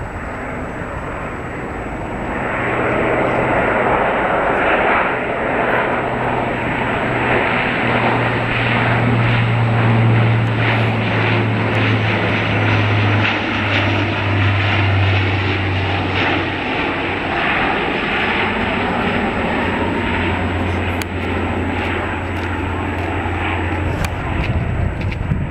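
Airliner's engines as it flies over. The noise swells about two seconds in and stays loud, and a low hum drops in pitch as the plane passes.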